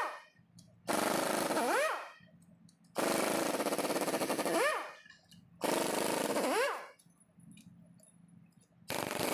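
Angle grinder with a wire brush scouring engine metal in four bursts of one to two seconds each, with short pauses between. Each burst ends with a rising whine as the brush spins up.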